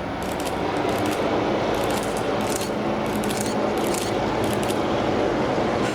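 A rail-carrying work train hauled by T-class diesel locomotives passes. It makes a steady, loud rumble of wheels on the track, with short high metallic squeaks and ticks at irregular intervals. The rumble swells slightly about half a second in.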